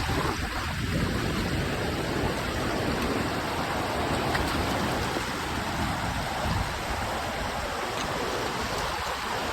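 Steady rush of whitewater rapids in a river, an even roar of churning water.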